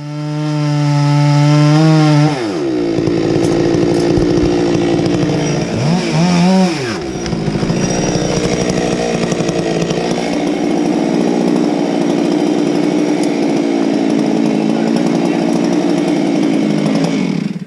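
Chainsaw at full throttle. About two seconds in its pitch drops as it bites into the wood, and it cuts under load through most of the stretch, bogging briefly and recovering around six seconds in. It cuts off suddenly near the end.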